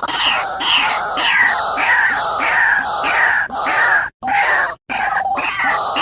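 A bird calling over and over in harsh, screechy calls, about two a second, each sliding down in pitch, broken by two sudden short gaps in the second half.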